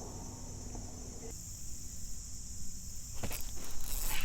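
Steady high-pitched chorus of insects, with a few sharp knocks near the end.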